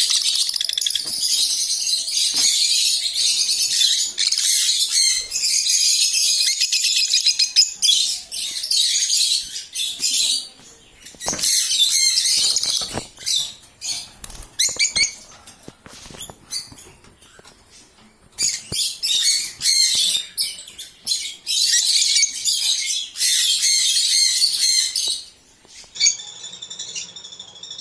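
A flock of African lovebirds chattering and shrieking together: dense, high-pitched noise in long stretches, with a lull about halfway through and a few thinner chirps near the end.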